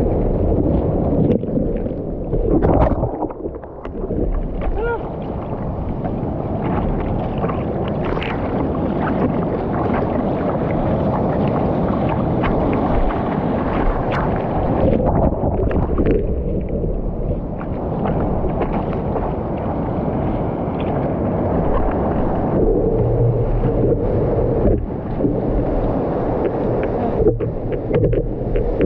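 Rough, rushing noise of wind buffeting the microphone and water churning around it in choppy surf, dipping briefly a few seconds in and again midway.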